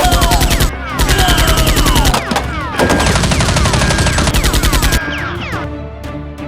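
Rapid automatic gunfire sound effects in several long bursts, mixed with high ringing tones that slide down in pitch. The firing stops about five seconds in, leaving only a few scattered shots.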